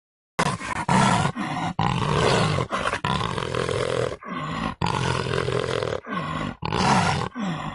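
A rapid series of loud animal roars, broken by many abrupt cuts, starting about half a second in.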